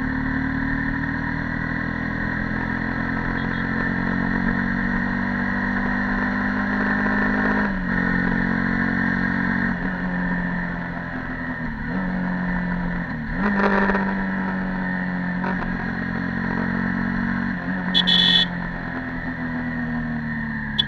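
Yamaha YZF-R15 V2.0's stock single-cylinder four-stroke engine running on the move, its pitch sliding and jumping several times with throttle and gear changes. Two short high-pitched sounds cut in, one about midway and one near the end.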